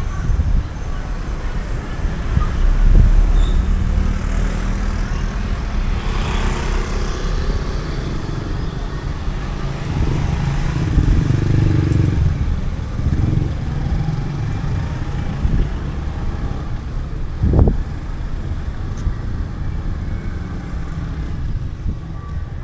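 Street traffic: motorcycles and cars running past with a steady low engine rumble that swells as vehicles go by, and a short thump about three-quarters of the way through.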